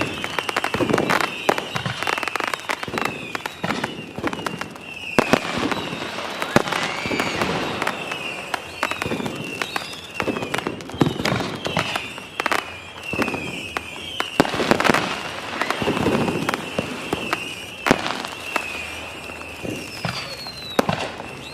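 Fireworks going off: a dense run of sharp bangs and crackles, with short wavering whistles throughout and one falling whistle near the end.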